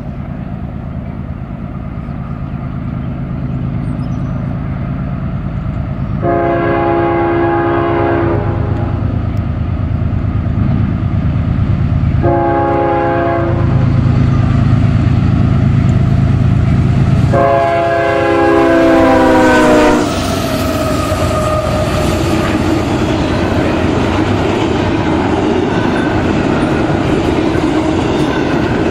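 A CSX freight train's GE diesel locomotives (an ES40DC and an AC4400CW) approach with their engines rumbling, growing louder, and sound the air horn three times: long, short, long, the last blast dropping in pitch at its end as the engines pass. Then the double-stack container cars roll by with steady wheel clatter.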